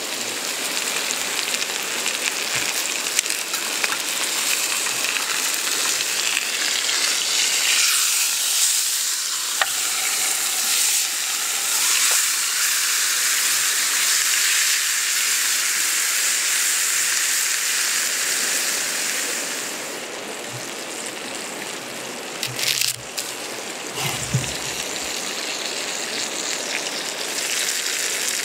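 Food frying and sizzling on a hot cooking surface over a campfire: a steady hiss with a few light crackles. The sizzle eases off for a few seconds about two-thirds of the way through, then picks up again.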